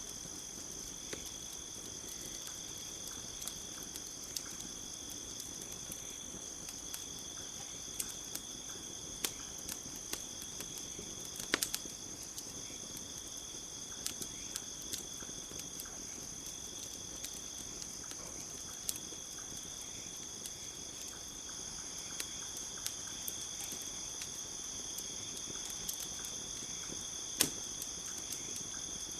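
Crickets chirring steadily at a high, even pitch, over a campfire crackling with scattered sharp pops, two of them louder, about twelve seconds in and near the end.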